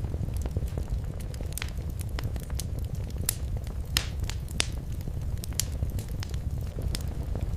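Wood fire crackling in a fireplace: a steady low rumble of the flames with irregular sharp snaps and pops, a few louder ones in the middle.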